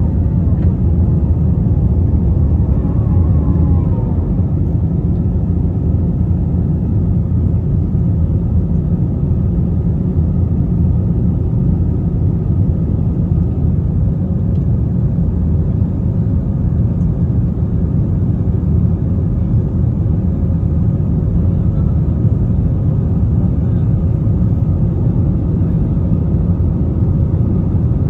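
Steady jet engine and airflow rumble heard inside the cabin of an Airbus A320-family airliner, with a few faint tones that shift in pitch during the first few seconds.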